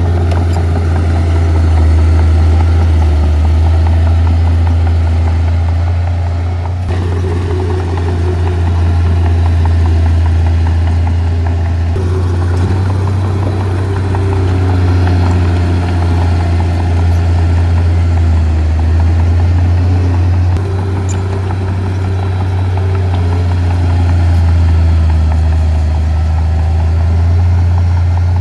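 Heavy earthmoving machine's diesel engine running steadily with a strong low hum.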